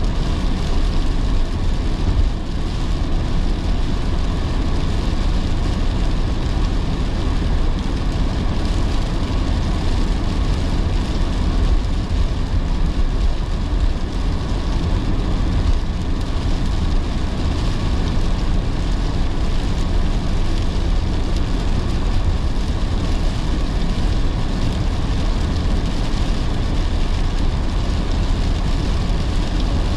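A car driving in heavy rain: steady low tyre and road noise with the hiss of rain and wet road, even throughout.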